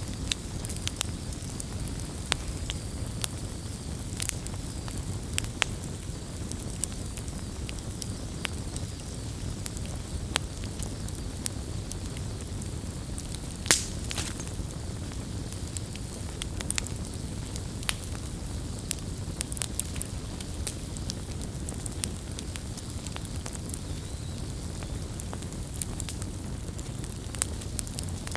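Wood campfire crackling: scattered sharp pops and snaps over a low, steady rumble, with one louder pop about halfway through.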